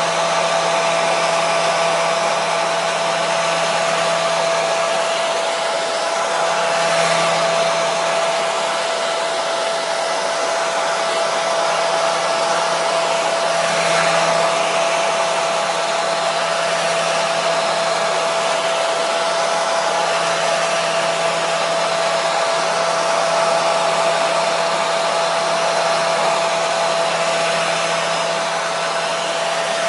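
Hair dryer running steadily: an even rush of blown air with a constant motor whine, played as white noise to settle a baby.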